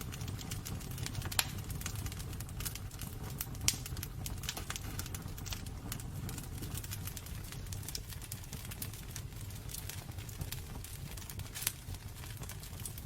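Wood burning in a fireplace: a low steady rumble of flames with frequent small crackles and a few sharper pops.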